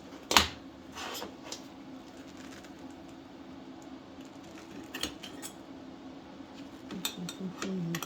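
Metal clinking and clicking as small steel pieces and tools are handled on a welding bench: a sharp clink just under half a second in, a few more around one second and five seconds in, and a run of clicks near the end. A steady low hum runs underneath.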